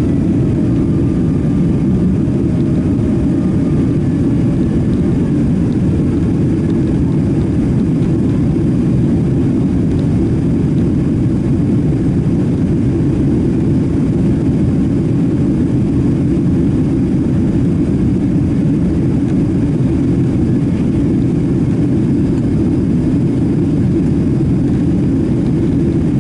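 Steady, loud cabin rumble of a Boeing 767-300ER with its jet engines running, a faint tone drifting slightly lower in the first few seconds.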